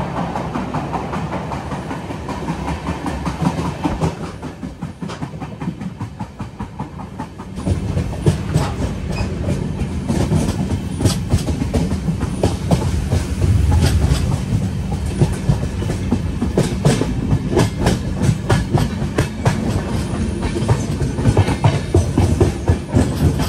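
Passenger train running on the rails: a steady rumble with rapid clickety-clack of the wheels over the rail joints. It gets louder and the clicks come thicker about eight seconds in.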